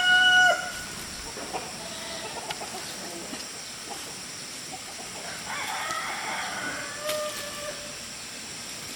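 A rooster crowing: the end of a loud, held crow about half a second in, then a fainter second crow or a run of clucks from about five and a half to eight seconds in.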